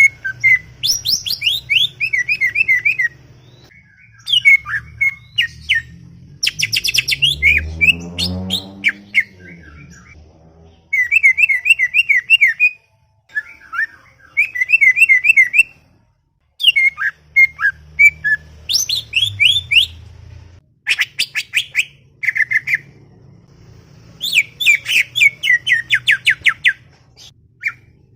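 Cucak ijo (green leafbird) singing in busy, chattering bursts of rapid chirps and trills, broken by short pauses. A low falling sound passes through between about seven and nine seconds in.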